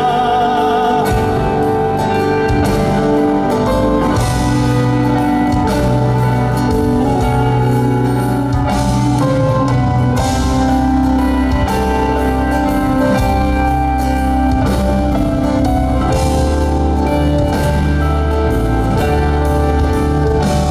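Live band playing an instrumental break: drum kit keeping a steady beat under sustained guitar and other instruments, with a held sung note ending about a second in.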